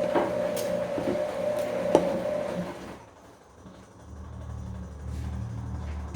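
Bosch Komfort-Klasse front-loading washing machine in its wash cycle. The drum motor runs with a steady whine and a few knocks, stops about three seconds in, and starts turning again about a second later with a lower hum.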